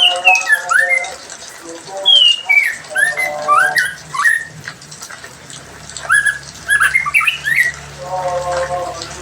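Songbirds singing in quick whistled phrases of short sweeping notes, broken three times by a lower, harsher repeated call.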